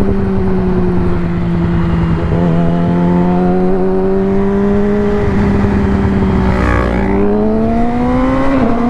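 Yamaha R6 inline-four sportbike engine running under way. Its pitch sags slowly, then climbs steadily as the bike accelerates, with a short dip near the end, over the low rush of wind on the helmet microphone.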